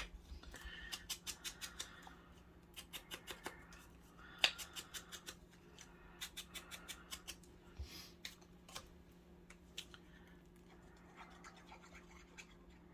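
Scissors cutting paper in quick runs of short snips, with pauses between the runs.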